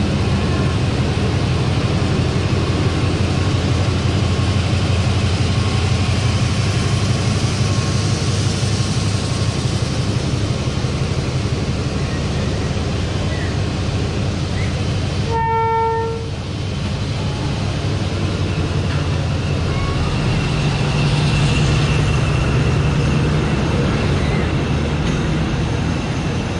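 Train running with a steady low rumble, and one short horn toot about halfway through.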